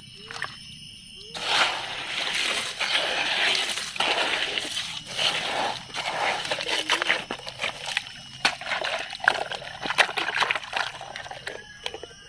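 Water sloshing and splashing as a plastic toy dump truck is washed, with scattered clicks and clinks.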